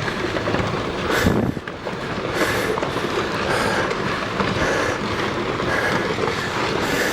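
Rockfall on a volcano slope: rocks tumbling and clattering down in a continuous rush of knocks, with a louder surge about a second in.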